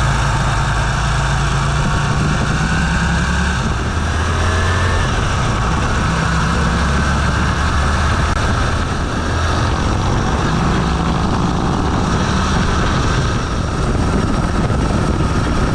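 Motorcycle engine running steadily while riding, its low drone rising and easing slightly, with heavy wind rush on the microphone.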